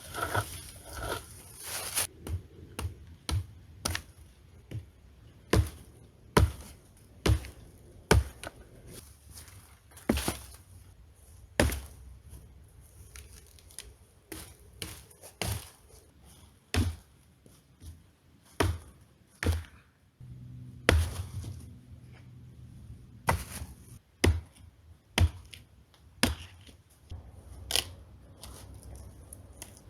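Hatchet chopping dead firewood: sharp single chops at irregular intervals, roughly one a second, some much louder than others.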